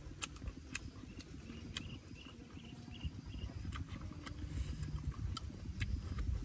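Close-up eating sounds: chewing and wet lip-smacking clicks from a person eating roasted fish by hand, irregular and continuous. Faint short high chirps sound in the background around the middle.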